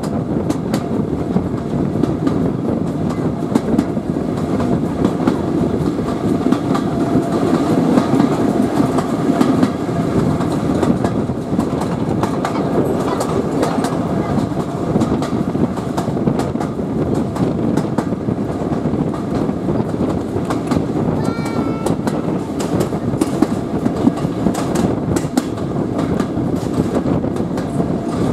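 Steam-hauled passenger train running along the line, with the carriage wheels making a steady rumble and clicking over the rail joints, heard through an open carriage window with some wind noise.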